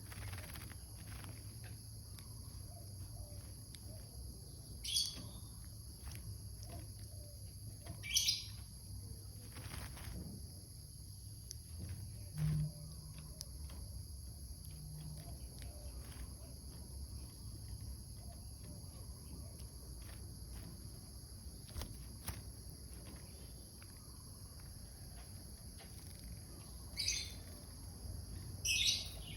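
Grey-cheeked bulbul (cucak jenggot) giving four short, loud, falling calls, two early and two near the end, with long gaps between. A steady high-pitched buzz runs underneath.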